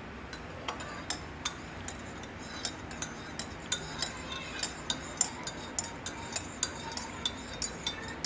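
A spoon stirring in a cup and clinking against its sides, starting irregularly and then settling into about three clinks a second. It is stirring in the coffee and sugar.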